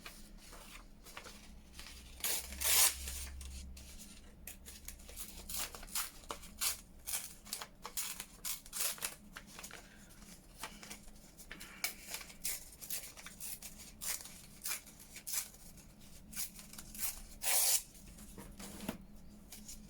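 Paper being torn by hand into thin strips: many short rips and rustles, with two longer, louder tears, one about two and a half seconds in and one near the end.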